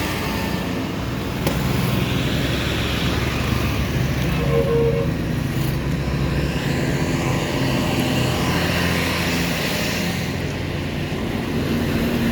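Steady vehicle engine hum with road and traffic noise on a highway.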